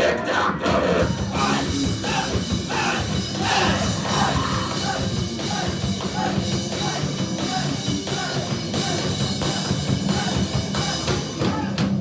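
Rock band playing live in a heavy style: drum kit and guitars keeping a steady driving beat, with singing over them.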